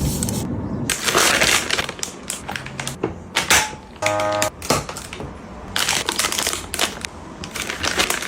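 Plastic crinkling and rustling in irregular bursts, as plastic packaging or containers are handled.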